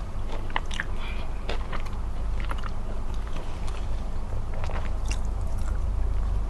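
Close-miked chewing and biting of smoked chicken: irregular wet clicks and small crunches from the mouth, over a steady low hum.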